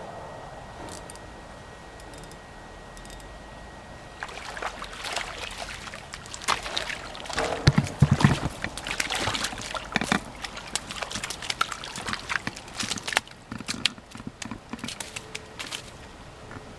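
Water splashing and sloshing in quick, irregular bursts, beginning about four seconds in, loudest near the middle and dying away near the end, over a steady background hiss.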